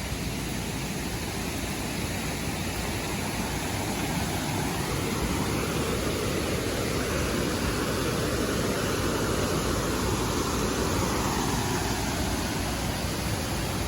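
Steady rushing of a waterfall, an even noise that holds without a break.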